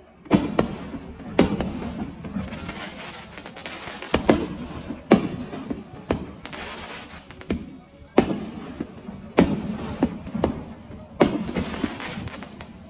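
Aerial fireworks shells bursting in a series of sharp bangs, roughly one a second, each followed by a crackling, echoing tail.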